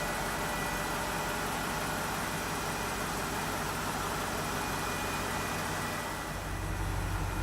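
BMW Alpina B5 (E60) supercharged V8 running at cold-start idle through its stock exhaust, a steady engine sound with a faint high whine. About six seconds in it turns to a deeper, steadier low drone.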